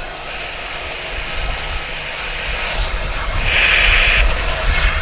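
Jet engines of a Qatar cargo airliner running with a steady rumble and hiss, growing louder a little past the middle.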